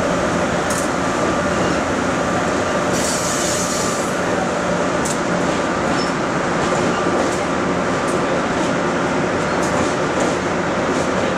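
A train running steadily: a constant hum with a few held tones and scattered light clicks.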